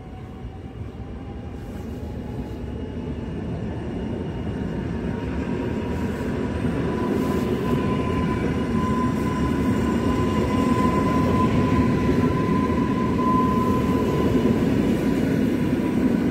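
Koleje Dolnośląskie passenger train running in along the platform and passing close, its rumble growing steadily louder. A thin whine rises slightly in pitch over the first few seconds, then holds steady.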